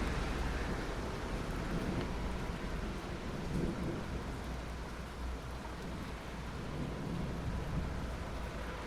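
Steady rain falling, with a low rumble of distant thunder underneath that is strongest at the start and slowly dies down.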